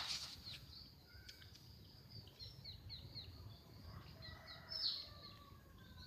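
Small birds chirping: a run of quick, high, falling chirps, about four a second, with one louder chirp near the end.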